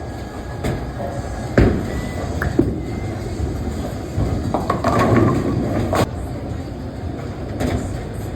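Bowling balls rolling on lanes with a low, steady rumble, broken by sharp clatters of pins being struck, the loudest about a second and a half in and another near six seconds.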